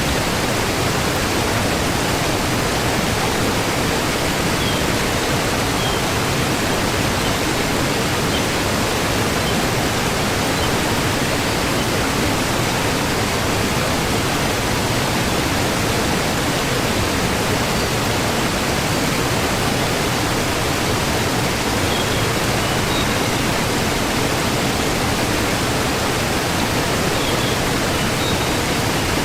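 Waterfall: a steady, even rush of falling water, with a few faint high chirps now and then.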